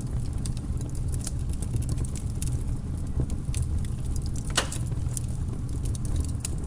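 Wood fire burning in a fireplace, with a steady low rumble of the flames and irregular crackles and snaps from the logs, one louder pop about two-thirds of the way through.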